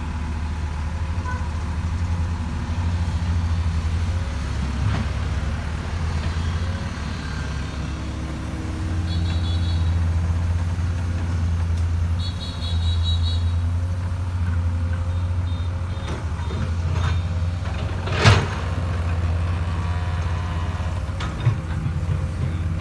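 Hydraulic excavator's diesel engine running steadily under working load, its note shifting as the machine works. Two short bursts of high beeps come about a third and halfway through. A single sharp clank near the end is the loudest moment.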